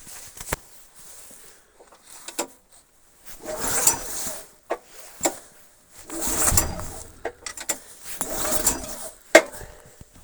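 Recoil pull-starter on a cold Lifan 192F-2 single-cylinder four-stroke engine pulled three times, each pull a rasping, cranking burst of about a second, with clicks between the pulls. It is started on choke alone, with no primer, and the engine does not catch and run.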